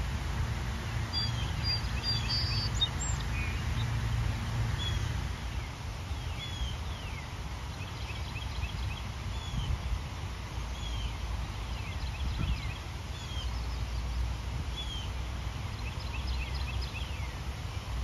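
Small birds chirping and whistling, with brief calls repeated throughout, over a steady low rumble.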